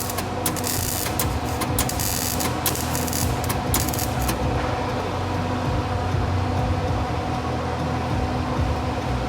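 Welding arc crackling in runs with short breaks, stopping about four seconds in; a steady low machine hum goes on underneath throughout.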